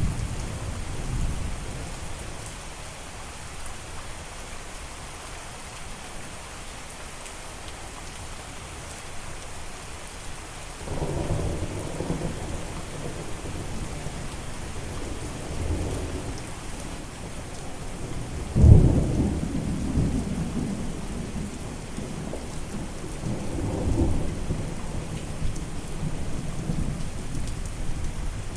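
Steady rain falling, with thunder rolling in low rumbles about a third of the way through, a sharp loud clap about two-thirds in, and more rumbling after it.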